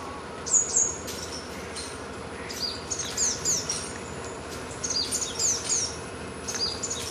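A songbird singing short phrases of quick, high, falling chirps, a phrase every couple of seconds, over a steady faint outdoor background.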